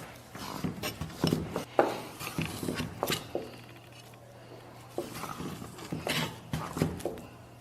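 Kitchen knife slicing pork belly into small pieces, the blade knocking on the cutting board in irregular strokes, with a short pause around the middle.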